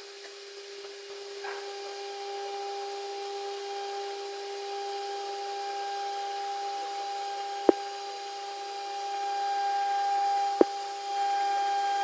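CNC router spindle running with a steady high whine, growing louder in the second half, with two sharp clicks about three seconds apart.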